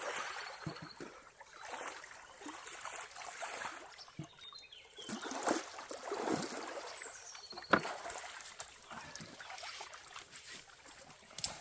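Water splashing and trickling in irregular swells, with a few sharp knocks, the loudest about three quarters of the way through.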